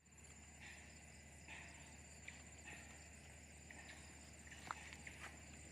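Faint outdoor ambience: a steady thin high insect drone with repeated short chirps and a few light clicks.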